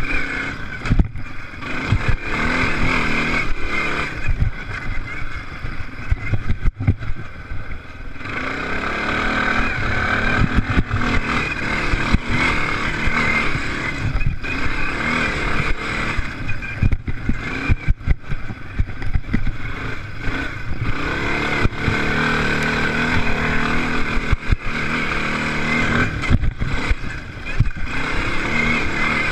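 Off-road race engines on a motocross track, revving and rising and falling in loudness as machines pass, with many short knocks and crackles mixed in.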